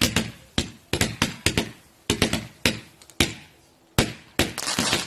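Fireworks going off: a rapid, irregular run of sharp bangs, several a second, each with a short echoing tail. They thin out about three seconds in, followed by a single bang and then a burst of crackling near the end.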